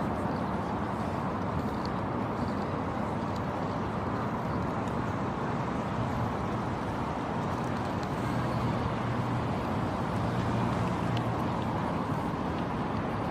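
Steady outdoor background noise: a continuous rumble and hiss with a low hum, and a few faint ticks.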